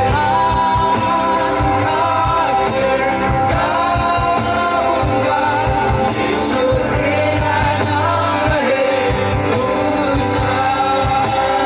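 Christian worship song: a singer's voice carrying the melody over band accompaniment with a steady beat.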